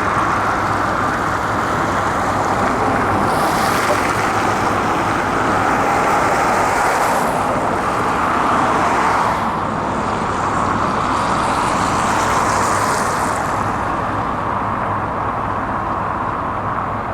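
Heavy construction machinery's diesel engine running steadily under load. Two stretches of higher hiss join in, about three seconds in and again about ten seconds in, each lasting a few seconds.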